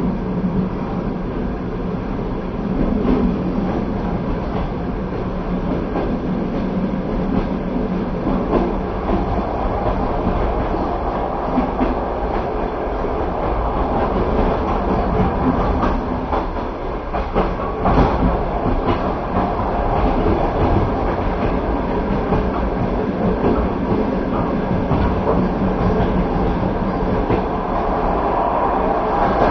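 Passenger train running at speed, heard from inside the carriage: a steady rumble of wheels on rails with occasional clacks over the rail joints.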